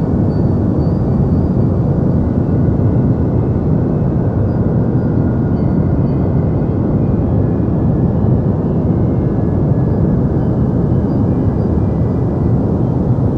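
Deep white noise for sleep: a steady, unchanging rushing noise, heavy in the low end and soft in the treble, with a few faint thin tones high above it.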